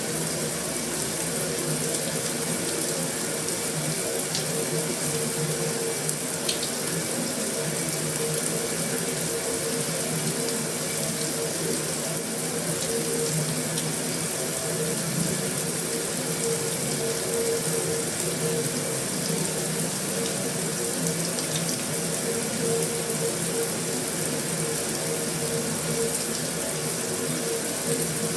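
Heavy rain drumming steadily on a metal roof, an even unbroken hiss with a few sharper single drip ticks now and then.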